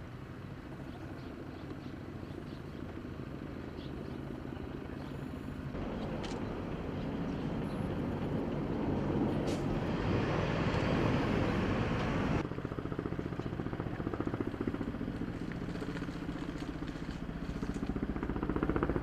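Firefighting aircraft engine droning, swelling louder as it passes close, then dropping suddenly about twelve seconds in before building again near the end.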